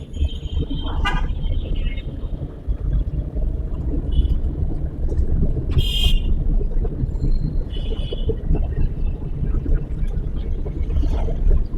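Car driving in traffic: a steady low rumble of engine and road noise, with several short high-pitched tones over it about a second in, near four seconds, a louder one near six seconds, and another near eight seconds.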